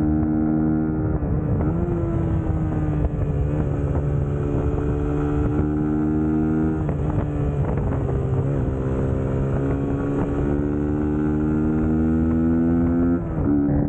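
Suzuki GSX-S150's single-cylinder four-stroke engine running steadily while riding. The pitch drifts slowly, with a few short dips and jumps where the gears are changed.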